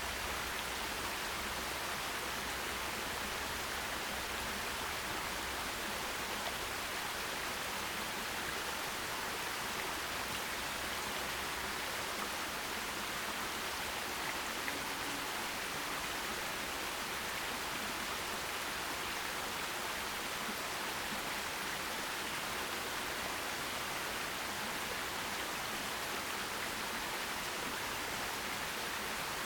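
Forest stream running over rocks: a steady, even rush of water that does not change.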